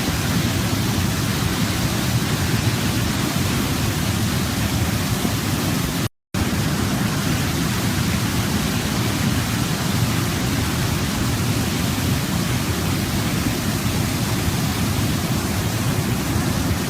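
Waterfall, a steady rush of falling water. The sound cuts out completely for a fraction of a second about six seconds in, then resumes unchanged.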